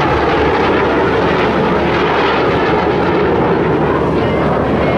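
Loud, steady engine noise of a fixed-wing aircraft flying past, with no breaks.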